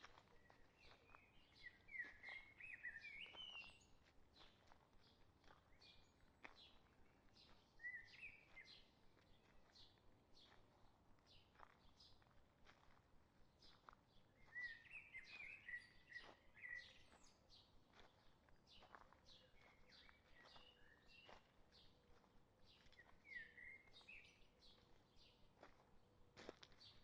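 Songbirds singing faint warbling phrases every few seconds, over frequent soft clicks and crunches of footsteps on the forest trail.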